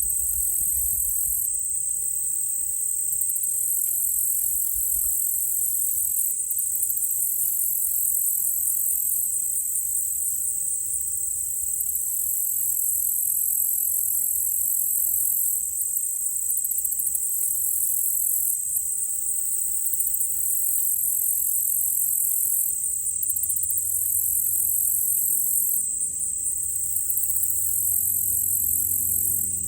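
A steady chorus of insects trilling high and fast. In the last several seconds a low, even drone fades in and grows: a small propeller plane approaching in the distance.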